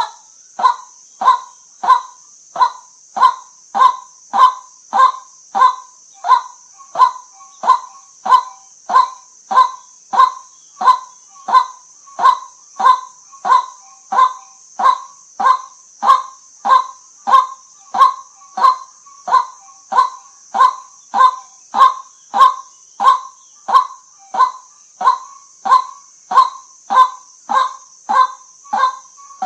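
White-breasted waterhen (nok kwak) calling: a monotonous series of short, even 'kwak' notes, repeated at nearly two a second, over a steady high hiss.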